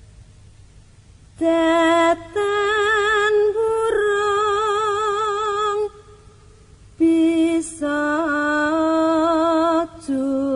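A woman singing a slow Javanese song in long held notes with a wavering vibrato, broken by short pauses; the first second or so is quiet before she comes in.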